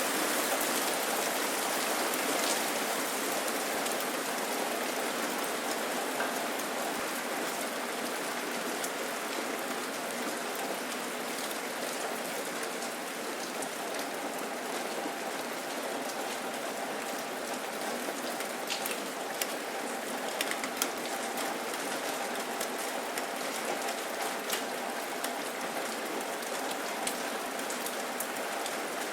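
Steady rain falling: an even hiss with scattered sharp drop ticks, and a few louder drops about two-thirds of the way through.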